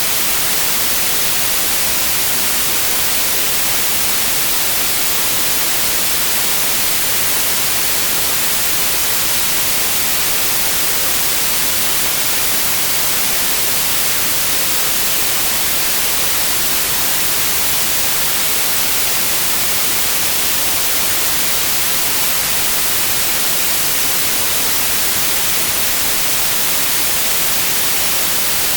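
Steady synthetic white noise: an even, unchanging hiss with the most energy in the high frequencies.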